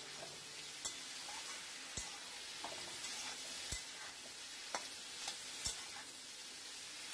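Cubed potatoes, brinjal and onion frying in mustard oil in a kadhai, a steady sizzle, while a spatula stirs them and knocks against the pan about once a second.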